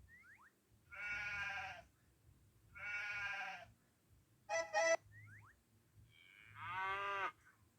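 Farm animal sounds: sheep bleating twice, each call about a second long, then a short sharp call and a longer call that bends down in pitch near the end, with faint thin chirps between.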